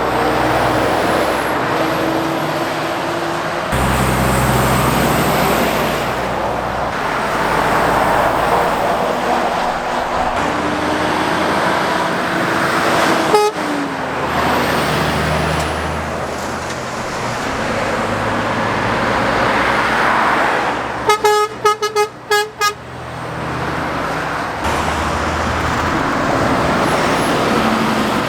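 Lorries and cars passing on a busy main road, engine and tyre noise rising and falling as each goes by. About three quarters of the way through, a vehicle horn sounds a quick run of short toots.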